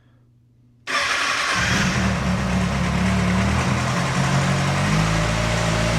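2007 Kawasaki ZX-6R's inline-four engine catching abruptly about a second in, then idling steadily, its note settling a little lower about five seconds in. The bike is a cold start after sitting unstarted for about two weeks.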